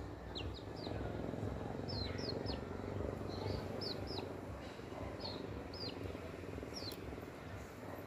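Small birds chirping: about a dozen short, high notes, each sliding downward, often in quick pairs or threes. Under them is a steady low background rumble.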